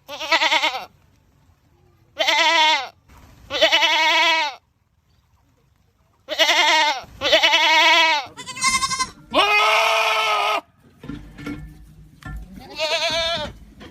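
Goats screaming: a run of about eight loud, quavering bleats, each under a second or so long, with short pauses between. They turn quieter near the end, over a low rumble.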